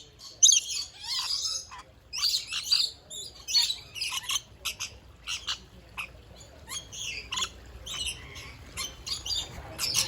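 A flock of parrots crowding a nectar feeding, giving many short, sharp chirps and squawks that overlap in a constant jumble.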